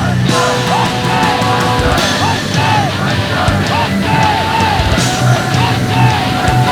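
Loud, steady rushing roar of a tezutsu, a hand-held bamboo tube firework spraying sparks, with music and shouting over it and short swooping tones repeating about twice a second.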